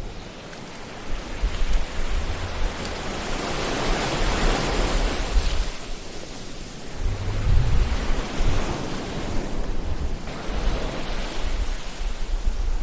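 Ocean surf: waves washing in with a steady rush, swelling to a peak about halfway through and again a little later, over a low rumble.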